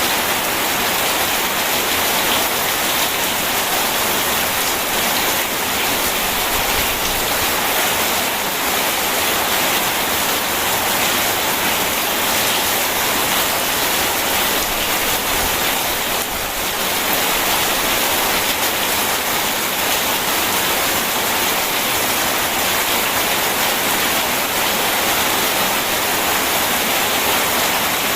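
Steady rain falling, an even dense hiss that does not change.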